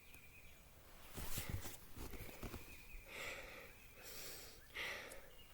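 A person breathing hard through the nose and mouth while climbing on foot, about three audible breaths, with soft low bumps from footsteps or handling.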